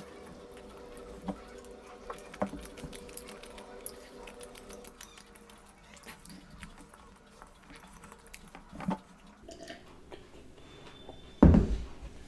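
Close-miked chewing of cheesy bread, with wet mouth clicks and small smacks scattered through. A single loud thump comes near the end.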